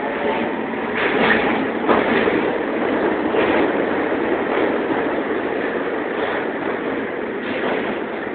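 Milan Metro Line 1 trains running through an underground station: a steady, loud rumble of wheels and running gear, with two sharp clacks about one and two seconds in, easing off slightly near the end.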